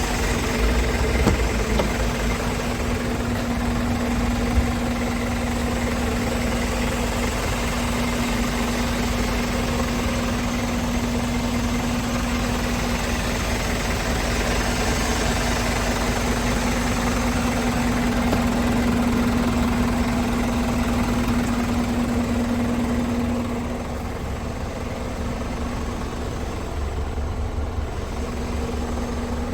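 Scania P410 truck's 13-litre inline-six diesel idling steadily. A steady hum runs over the engine and drops away about three-quarters of the way through, the overall level dipping slightly, then comes back near the end.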